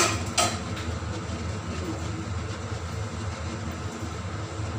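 A steady low hum and hiss, with two sharp clicks about half a second apart at the start, typical of a spoon or lid striking a cooking pot.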